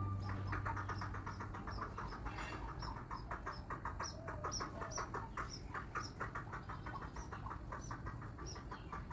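Waterhen chick peeping in rapid, continuous short calls, with higher, sharper chirps over them about twice a second. Background music fades out in the first second or two.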